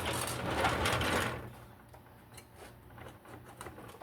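A socket tool spinning a bolt out of a small generator, a rapid mechanical whirr for about a second, then faint light clicks.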